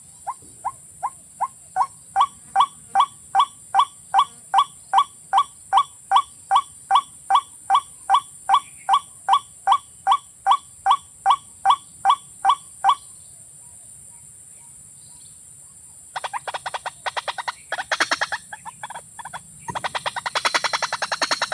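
A rail's call, as used to lure water cocks and waterhens: a long series of short, evenly spaced 'kok' notes, about three a second, which stops about 13 seconds in. After a pause, a faster, rattling run of notes follows. A steady high hiss lies underneath.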